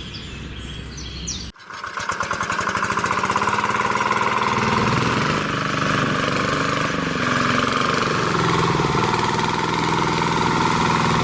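Small engine running with a rapid, even putter, cutting in abruptly about a second and a half in after quieter outdoor ambience.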